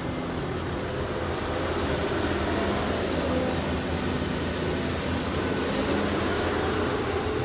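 CAT 320D2 hydraulic excavator's diesel engine running steadily, a little louder from about two seconds in.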